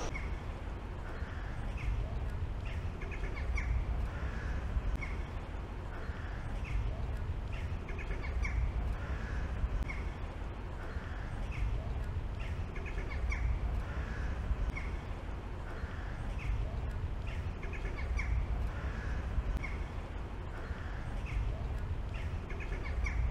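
Outdoor ambience of a city square: a bird gives short harsh calls about every two seconds over a steady low rumble.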